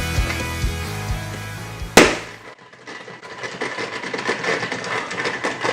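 Background rock music fading out, then a single loud balloon pop about two seconds in, followed by faint irregular clicking.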